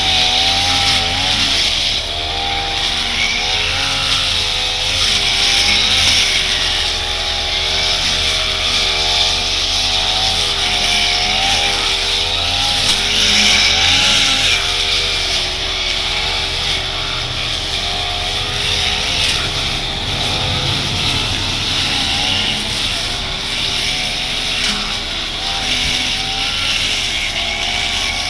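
Brush cutter engine running at high throttle, its pitch wavering up and down as the metal blade cuts through thick, dense grass.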